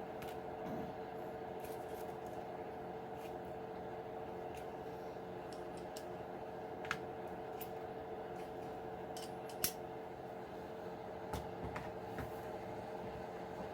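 Scattered small sharp clicks and snips of hand work on plastic parts, three of them louder, over a steady low hum.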